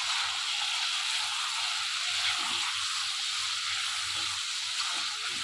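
Chicken pieces and ginger-garlic paste sizzling steadily in hot oil in a karahi, being stirred with a silicone spatula.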